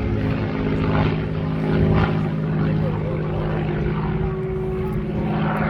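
Propeller aircraft's piston engine in flight, a steady drone that holds its pitch.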